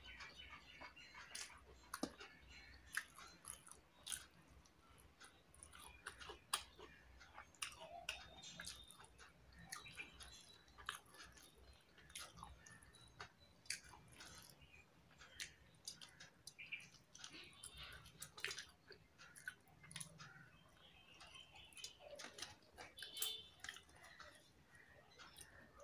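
Faint chewing and wet mouth sounds of a person eating rice and fish by hand, with many small scattered clicks and smacks.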